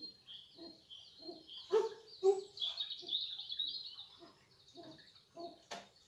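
Small songbirds chirping and singing continuously, with two loud, low notes close together about two seconds in and a single sharp click near the end.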